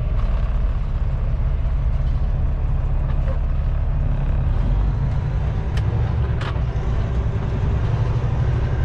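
Kenworth T660 semi truck's diesel engine running steadily at low speed, with two short sharp clicks about six seconds in.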